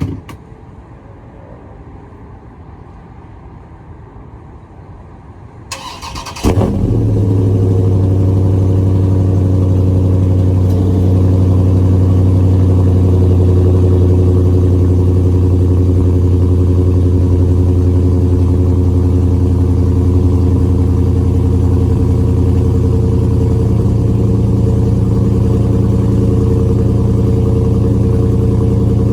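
2020 Dodge Charger Widebody's HEMI V8 cold started: after a few quiet seconds the starter cranks briefly and the engine fires loudly about six and a half seconds in, then settles into a steady cold idle.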